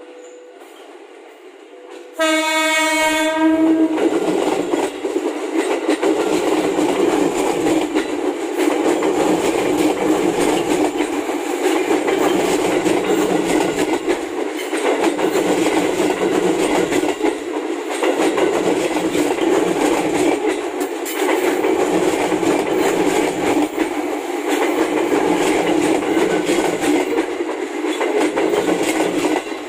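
A JR 205 series electric commuter train (KRL) sounds its horn once, a single pitched blast of about a second and a half. It then runs past close by with a loud, steady clatter of wheels on rail that pulses about every three seconds.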